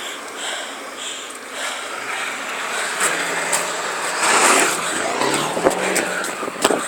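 A truck driving past, its engine and tyre noise swelling about four seconds in.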